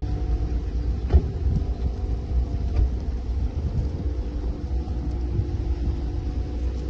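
Steady low rumble of a car, with a single thump about a second in.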